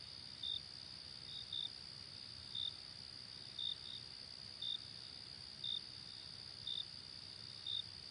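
Night ambience of a cricket chirping: short high chirps about once a second, a few coming in quick pairs. Beneath them runs a steady high hiss and a soft low rumble.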